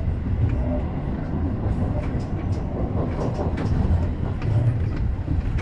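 Electric commuter train running, heard from the driver's cab: a steady low rumble of wheels on rails with scattered sharp clicks as the wheels pass over rail joints and points.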